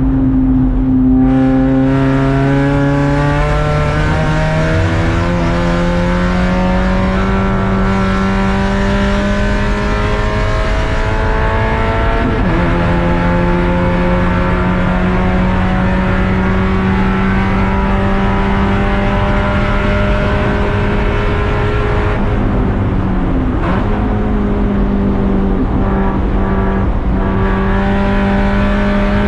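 Race car engine running hard under load, its note climbing slowly through long pulls. The pitch drops abruptly about twelve seconds in and again a little past twenty seconds, like gear changes or lifts.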